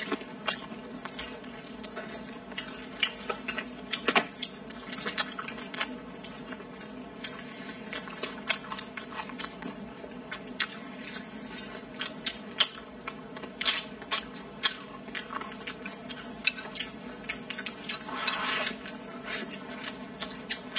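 Close-up eating sounds of people chewing braised meat and rice: many short, irregular mouth clicks and smacks, over a steady faint hum. A longer, noisier sound lasts about half a second near the end.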